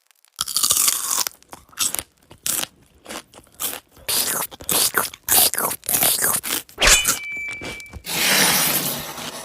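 A run of short, irregular crunching and scraping noises, like something hard being chewed or gnawed, with a brief high squeak about seven seconds in and a longer rushing noise near the end.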